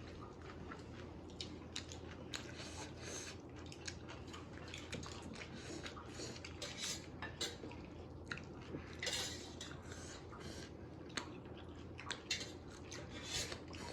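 Eating sounds: utensils clicking against dishes, with chewing and biting, in many short, irregular clicks.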